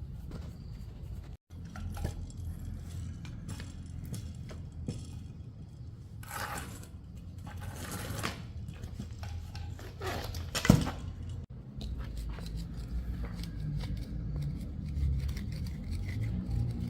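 Hand tools and metal motorcycle parts clinking and scraping during repair work, with two longer scrapes in the middle and one sharp metallic knock, over a steady low hum.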